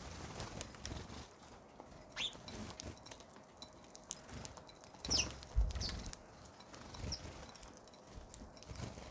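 Birds chirping now and then, a few short calls falling in pitch, with soft low thumps between them.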